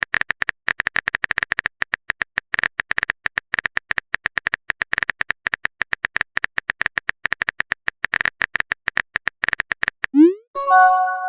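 A rapid, irregular run of keyboard-typing clicks from a sound effect, about ten a second. About ten seconds in, a short rising swoosh follows, then a brief chiming tone.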